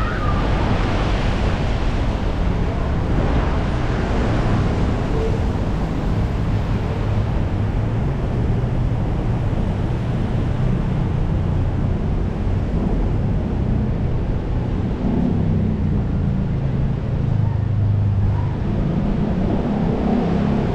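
Strong wind gusting over the microphone with rain, over a steady rumble of city road traffic; engine hum from passing vehicles comes up in the second half.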